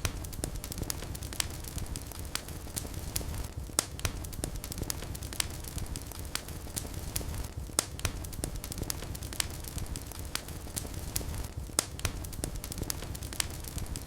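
Fire crackling in a fireplace: irregular sharp pops and snaps, several a second, over a steady low rumble of flames.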